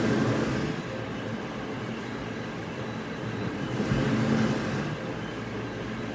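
Machinery running steadily with a low hum, swelling louder twice, near the start and about four seconds in.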